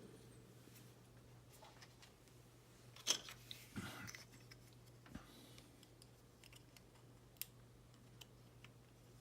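Quiet handling of small plastic model-kit parts: a light click about three seconds in with a short rustle after it, then a few faint sharp clicks, over a low steady hum.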